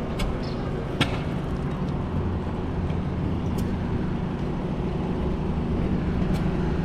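A vehicle engine idling steadily, with a few short sharp clicks.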